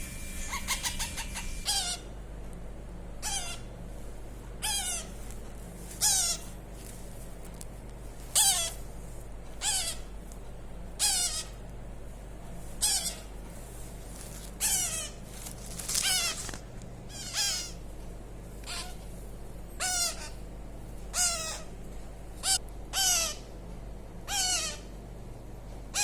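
Baby parrot calling over and over: short, loud, falling squawks about every second and a half.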